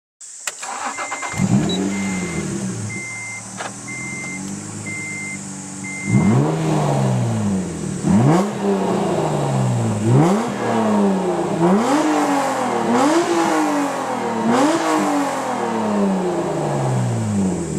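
Honda NSX V6 through a TAITEC GT009 aftermarket exhaust: the engine catches about a second in, flares and settles to idle while a beep repeats. From about six seconds in it is blipped sharply, around seven times, each rev rising fast and falling back to idle.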